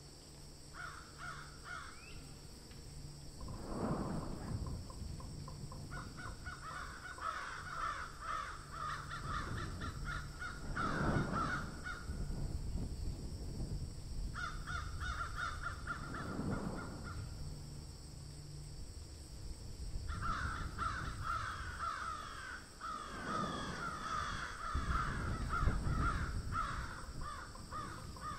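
Harsh, raspy bird calls in long runs of several seconds each, over a steady high hiss, with a few brief low rumbles.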